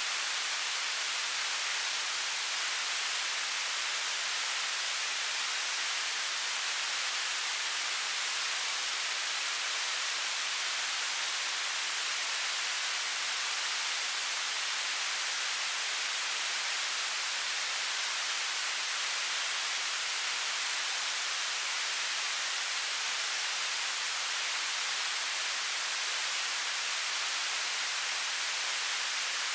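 Television static: a steady, unchanging hiss weighted toward the high end, with little low rumble.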